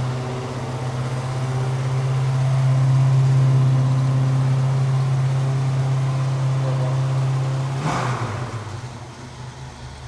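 1979 Pontiac Trans Am's V8 idling steadily, warming up after a cold start. About eight seconds in there is a brief sharp knock, and after it the engine sounds noticeably quieter.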